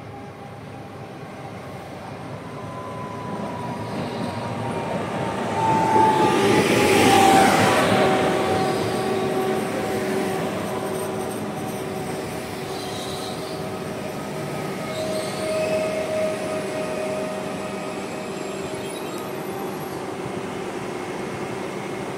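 PESA Elf electric multiple unit pulling into the station. Its running noise builds to a peak as it passes close, about six to eight seconds in, with a whine that falls slightly in pitch, then settles into steady tones as it slows.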